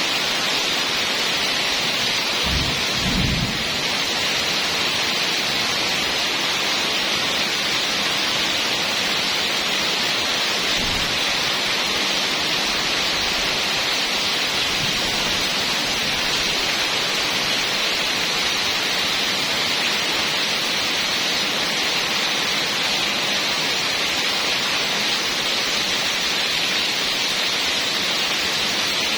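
Heavy rain falling steadily in an even hiss, with a brief low rumble about three seconds in and a fainter one around eleven seconds.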